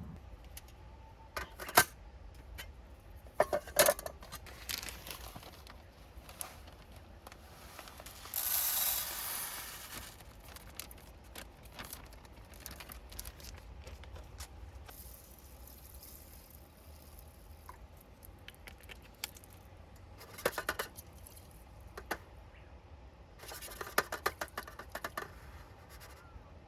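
Small objects being handled: scattered clicks, clinks and knocks, with a brief rustle, like something torn or crumpled, about eight seconds in.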